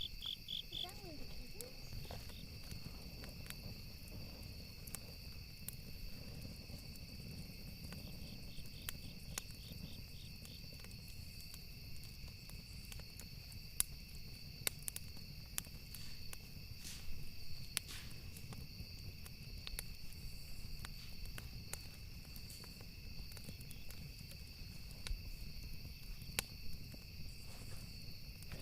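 Campfire ambience: wood crackling with scattered sharp pops over a low steady rumble of the fire, while crickets chirp steadily, with pulsed trills near the start and again about a third of the way in.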